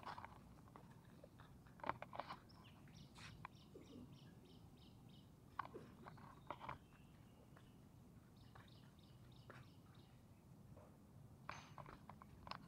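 Faint outdoor quiet with a small bird chirping in quick runs of short high notes, twice, and a few scattered soft knocks.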